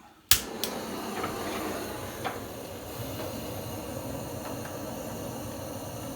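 Wood fire burning in a Jøtul F 373 stove's firebox with the door left ajar for extra draught: a steady rushing hiss with a few faint crackles, after one sharp click about a third of a second in.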